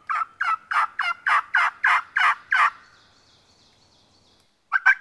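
Hand-blown turkey hunting call: a string of about ten loud, evenly spaced calls over nearly three seconds, sent out to make gobblers answer and give away where they are. A second string of calls starts near the end.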